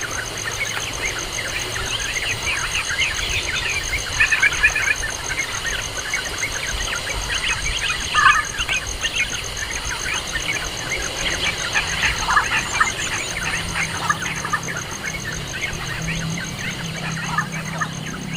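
Birds chirping in many short, irregular calls, with a steady high-pitched pulsing trill behind them. A low hum comes in about two-thirds of the way through.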